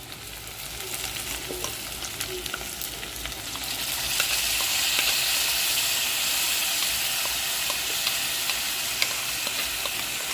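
Onion-tomato masala frying in hot oil in a pan, sizzling as it is stirred, with light clicks of the spoon against the pan. The sizzle grows louder about four seconds in.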